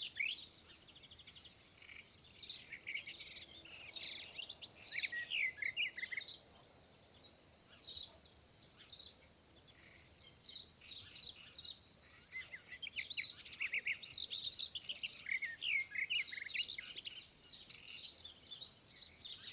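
A flock of small birds chirping and twittering in quick, overlapping high calls. The calls thin out to a few scattered chirps around the middle, then pick up again.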